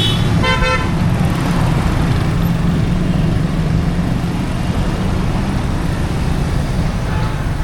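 Street traffic running steadily with a low engine rumble, and a short horn toot about half a second in.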